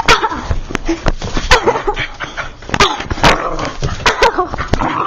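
A dog yipping and whimpering as it goes for its owner, mixed with many sharp knocks and scuffling sounds.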